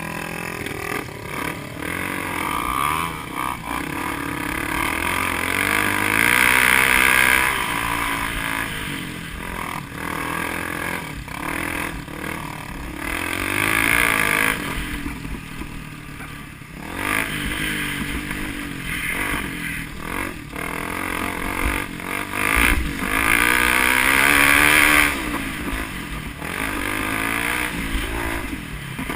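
Vehicle engines revving up and falling back again and again as they are driven hard around a course, with loud high-revving surges about six seconds in, around fourteen seconds and again near twenty-four seconds.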